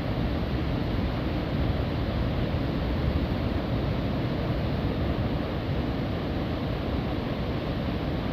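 Steady rush of ocean waves on a beach, mixed with wind on the microphone.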